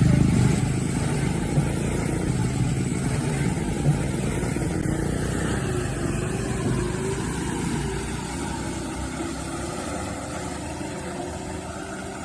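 Heavily loaded truck's engine running as the truck crawls over a muddy, uneven road: a steady low rumble that slowly fades.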